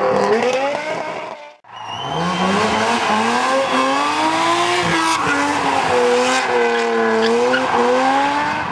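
Drift car engine revving hard, its pitch rising and falling as the driver works the throttle, with tyres squealing. The sound breaks off abruptly about a second and a half in, then another car's engine climbs and swings in pitch through repeated revs.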